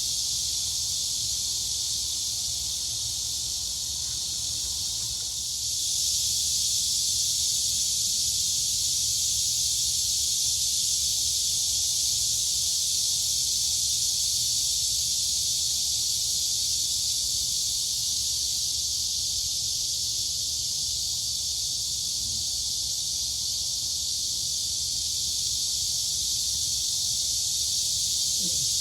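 A dense, steady chorus of crickets and cicadas, a high continuous buzzing hiss that grows louder about six seconds in. A faint low rumble runs beneath it.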